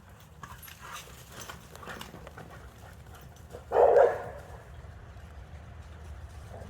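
A dog barks once, loud and short, a little past halfway, over faint scattered clicks and scuffles.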